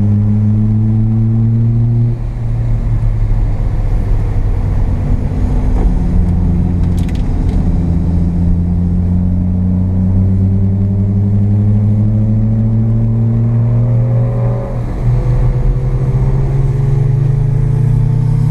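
The carbureted 12A rotary engine of a first-generation Mazda RX-7 pulls hard on track, its revs climbing slowly. Twice the revs drop sharply and then climb again: about two seconds in, and again past three quarters of the way through.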